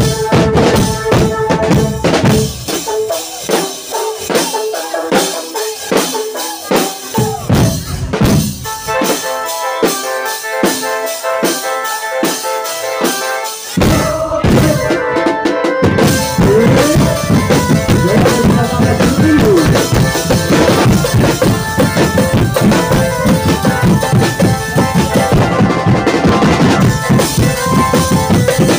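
Drum band playing: snare and bass drums keep a fast, even beat under a melody line. For a stretch in the middle the deep bass-drum part drops out, and the full band with bass drums comes back about fourteen seconds in.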